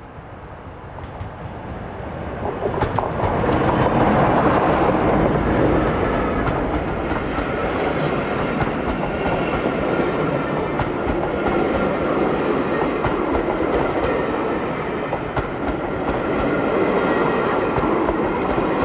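Diesel-hauled passenger train approaching and passing close by. It builds up over the first four seconds, then the coaches roll past steadily with repeated wheel clicks over the rail joints.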